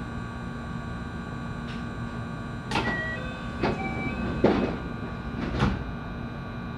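JR West 223 series electric train car with a steady electrical hum of constant pitch, joined in the middle by four short, loud, sharp noises about a second apart.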